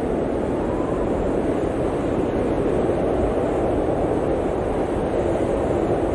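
Steady blizzard wind, a dense even rushing noise centred in the low middle range, swelling slightly and without gusts or breaks.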